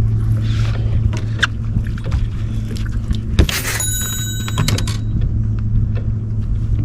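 Boat motor running with a steady low hum. A short loud burst of noise comes a little over three seconds in.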